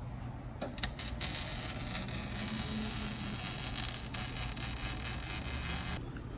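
Welding arc crackling and sizzling while exhaust pipe is joined. It starts with a few sharp pops about half a second in, runs as a steady hiss for about five seconds, and cuts off suddenly near the end, over a steady low hum.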